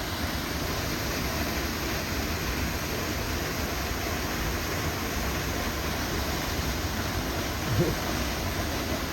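Waterfall rushing in a steady, even roar of falling water, with one short low thump near the end.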